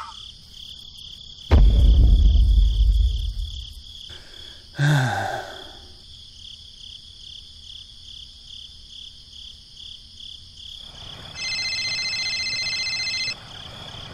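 A steady, pulsing high chirping runs underneath. About a second and a half in comes a loud, low rumbling crash lasting about two seconds, and a short falling-pitch sound follows a few seconds later. Near the end a mobile phone ringtone rings for about two seconds, pauses, then starts ringing again.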